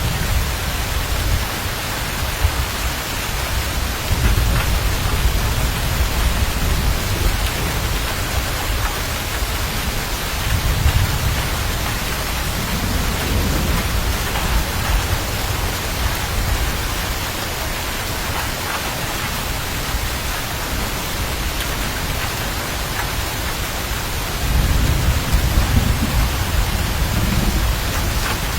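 Steady heavy rain with low thunder rumbling in slow swells, the strongest from about 24 seconds in.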